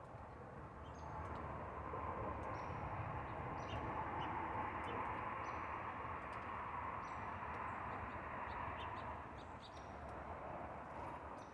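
Small birds chirping in short, scattered high notes over a steady rushing background noise that swells after about a second and eases near the end.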